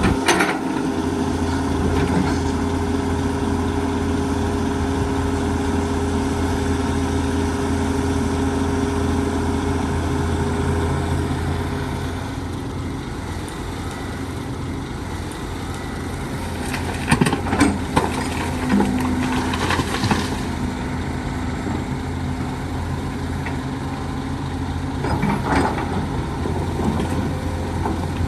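Heavy diesel engine of construction machinery running steadily at a low, even pitch. It is broken by a few sharp clanks and knocks, mostly in a cluster about two-thirds of the way through.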